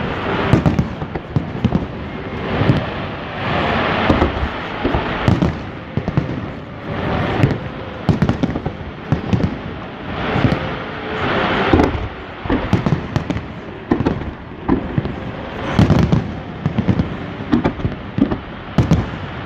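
Aerial fireworks display: shells bursting in quick, irregular succession with sharp bangs, interleaved with noisy stretches of about a second.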